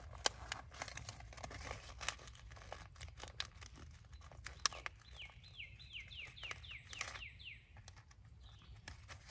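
Scattered crinkling and clicking handling noises, the loudest sounds, with a bird calling a quick run of about nine descending chirps for a couple of seconds midway.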